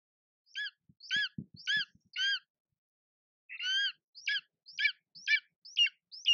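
A bird calling: a series of short, clear call notes, each rising and falling in pitch. Four notes, a pause of about a second, then a slightly longer note and a run of about five notes at roughly two a second.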